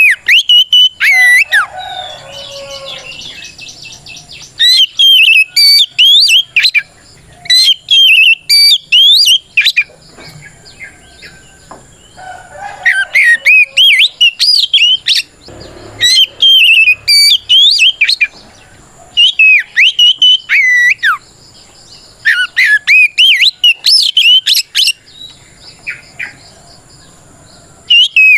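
Oriental magpie-robin singing loud, clear whistled phrases in quick runs broken by short pauses, with a few scratchy chattering notes mixed in. This is its challenge song, calling out rivals.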